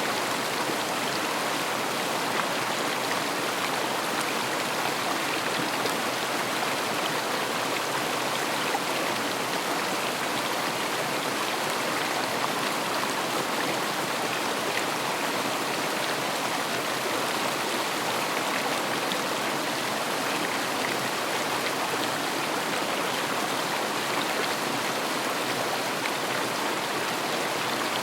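River water running over stones, a steady even rush with faint scattered splashes and drips.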